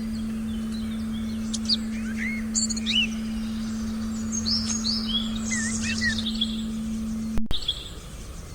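Several songbirds chirping and whistling in a forest recording, with short rising and falling calls, over a steady low electronic tone. Near the end everything cuts out for an instant; the birds' ambience comes back quieter, without the tone.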